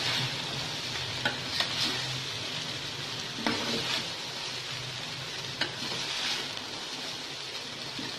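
Rice and vegetables sizzling in a hot pan as they are stirred and mixed, with the spoon scraping and knocking against the pan now and then.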